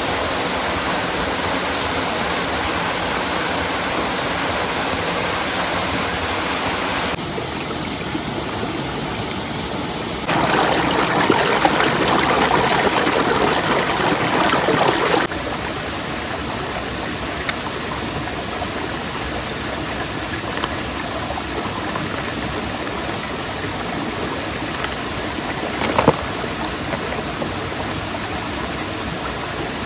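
Mountain stream rushing steadily. Its sound shifts abruptly a few times and is louder and fuller for about five seconds near the middle, with a single sharp knock late on.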